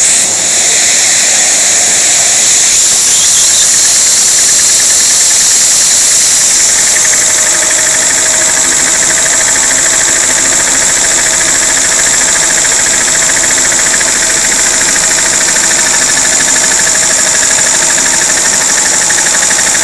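Vacuum cleaner running loudly and steadily, driving a homemade LEGO and K'NEX vacuum engine that clatters with a fast, even ticking; a steady tone joins in after about seven seconds.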